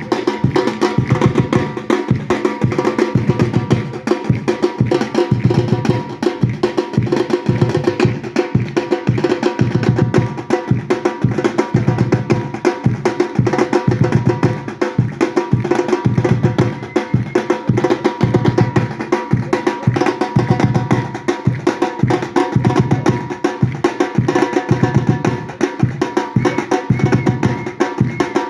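Batucada samba percussion ensemble playing a steady, driving rhythm of many drum strikes, with bright wood-block-like hits over deep drum beats.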